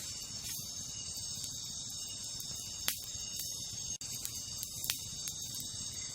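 Wood campfire crackling, with a few sharp pops (the loudest about three seconds in and again near five seconds), over a steady high chorus of night insects such as crickets.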